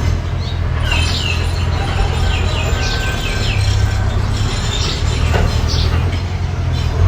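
Mini bulldozer's engine running with a steady low rumble, with a quick series of high squeaks over it about two to three seconds in.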